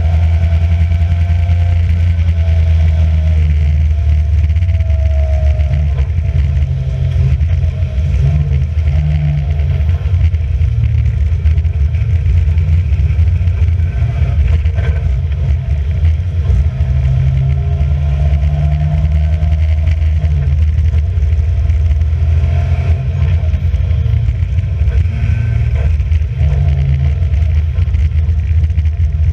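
Racing car engine running hard, a loud steady low drone whose pitch rises and falls a little as it goes.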